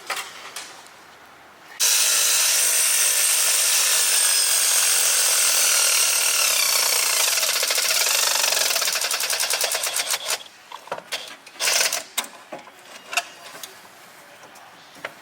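Handheld power tool running for about eight seconds with a fast rapid-fire rattle, starting abruptly about two seconds in and tailing off, followed by a series of sharp metal knocks and clicks from hand work on the turbo fittings.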